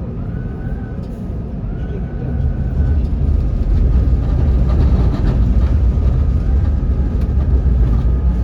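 Prague tram running along its rails, heard from inside the car: a steady low rumble of wheels and running gear that grows louder about two and a half seconds in, with a faint thin whine above it.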